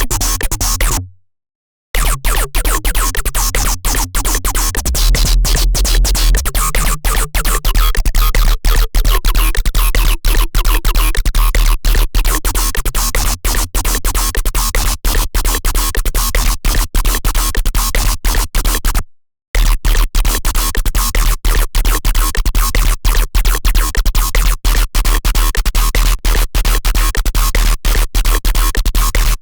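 Serum wavetable synthesizer patch playing a loud, harsh electronic sound over heavy bass, chopped by rapid, uneven stutters. It cuts out for a moment about a second in and again about two-thirds of the way through.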